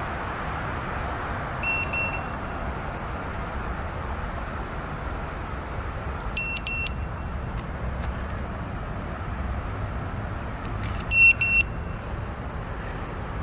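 Short, high electronic beeps in quick pairs: one pair about two seconds in, another about six and a half seconds in, and a louder pair near eleven seconds. They sound over a steady outdoor background noise.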